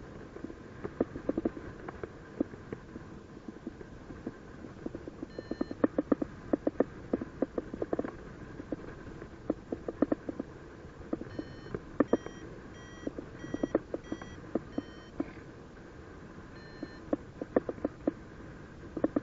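Paragliding variometer beeping in short repeated tones, a single beep about five seconds in, then a run of about eight quick beeps a little over halfway through, and one more near the end: the vario's climb tone, signalling lift. Irregular clicks and crackles run underneath throughout.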